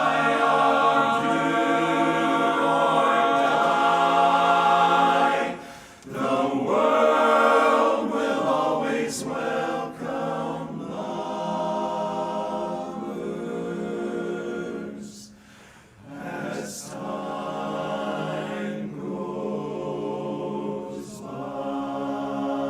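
Men's a cappella barbershop chorus singing in close harmony, holding long chords. The singing dips briefly about six seconds in and again about sixteen seconds in.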